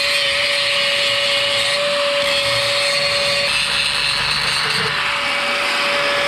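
Angle grinder running steadily under load, grinding steel, with a constant whine over a harsh hiss.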